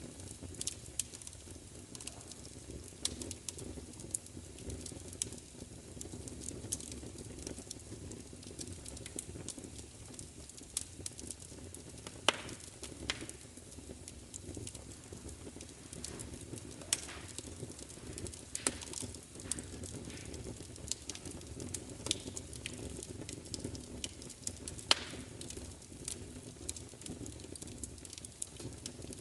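Wood fire crackling, with irregular sharp pops and snaps over a steady low rush of flame, and a few louder pops along the way.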